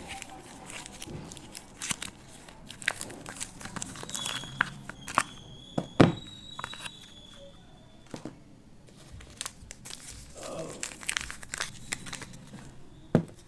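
Packaging being torn open and crinkled by hand, with many sharp crackles and two louder knocks, one about six seconds in and one near the end.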